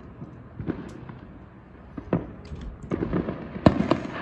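Fireworks going off: scattered sharp pops and bangs at irregular intervals, coming thicker in the last second and a half, with the loudest bang near the end.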